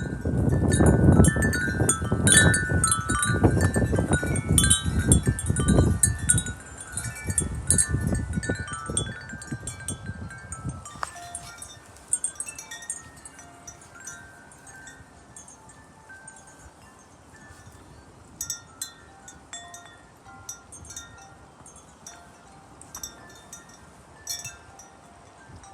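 Wind chimes ringing in gusty wind, many tones struck close together, with a gust rumbling on the microphone for the first ten seconds or so. Then the gust eases and the chimes settle to occasional single strikes.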